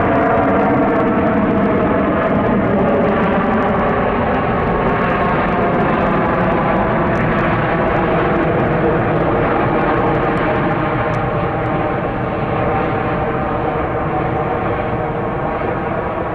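Boeing 777-200 twin jet engines running loudly and steadily, with a layered engine tone that slowly fades.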